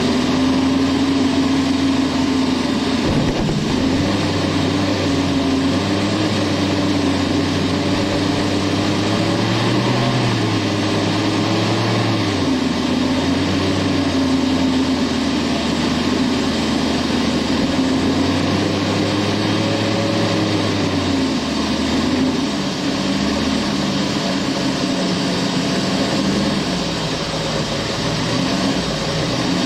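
Opel Manta's four-cylinder petrol engine running under load as the car is driven on snow, its note rising and falling repeatedly as the throttle is worked, heard from inside the cabin.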